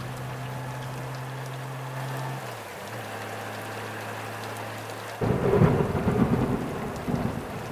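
Motorcycle riding in the rain: a steady engine drone that drops in pitch about two and a half seconds in, under a haze of rain and wind noise on the microphone. A little past five seconds a loud rush of wind and rain noise cuts in suddenly.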